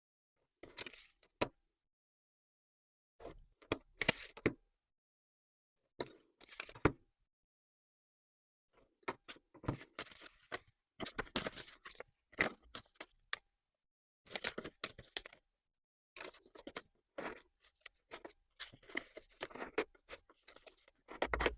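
Printed paper envelope templates being scored along dotted fold lines and their flaps folded in. It comes as short bursts of scraping, crinkling and clicking, with silent gaps between them; the bursts come closer together from about nine seconds in.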